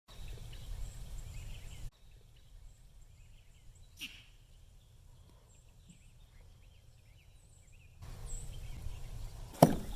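Outdoor rural background with a low rumble and faint bird chirps, breaking off abruptly twice. There is a click about four seconds in and a sharp knock near the end.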